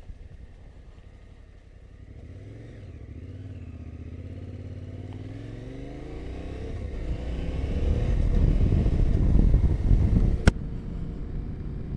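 Yamaha Ténéré 700's parallel-twin engine running at low revs, then pulling away with its pitch rising and getting steadily louder as the bike speeds up, with rushing wind noise building in the second half. A single sharp click near the end.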